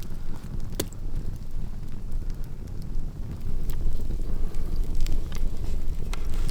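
Wind buffeting the microphone in a steady low rumble, with a few scattered sharp crackles from a wood campfire.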